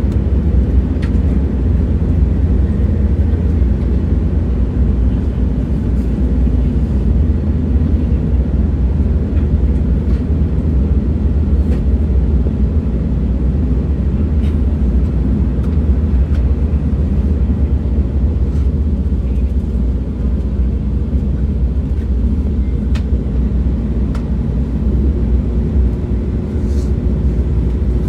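Steady low rumble of a moving train, with a few faint clicks scattered through it.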